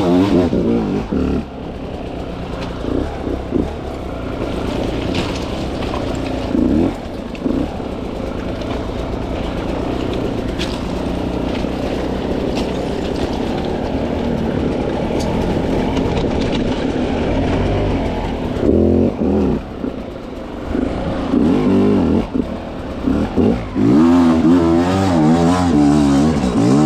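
300cc two-stroke dirt bike engine running at low, steady revs through the middle, then revved in repeated throttle bursts that rise and fall in pitch during the last third.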